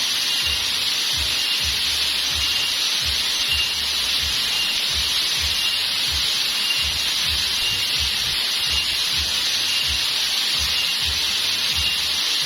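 Steady rush of flowing water at a waterfall stream, with a short high chirp repeating about every two-thirds of a second.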